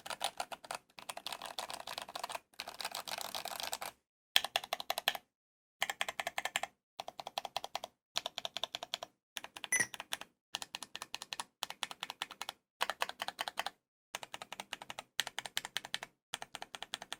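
Typing on a GMMK Pro prebuilt mechanical keyboard: fast runs of key clacks in bursts of about a second, broken by short pauses, with one louder clack about two-thirds of the way through.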